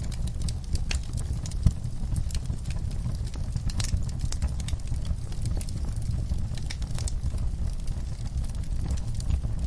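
Wood fire burning in a fireplace: a steady low rumble of flames with scattered crackles and snaps, and one sharp pop a little under two seconds in.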